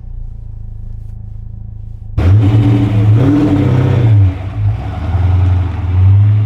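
A low steady engine hum, then about two seconds in a car engine turns suddenly loud, its low pitch rising and falling twice as it is revved.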